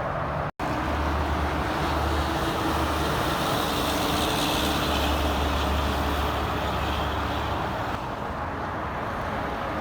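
Highway traffic going by, with a heavy vehicle's low engine drone that swells to its loudest around the middle and then fades. The sound cuts out for an instant about half a second in.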